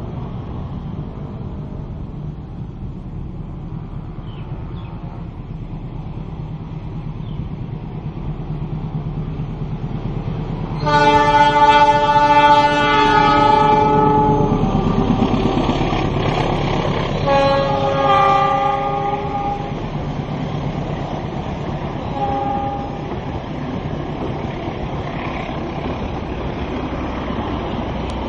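Train running past with a steady low rumble. Its horn sounds a long blast about eleven seconds in, then a shorter pair of blasts a few seconds later and one brief toot near the end.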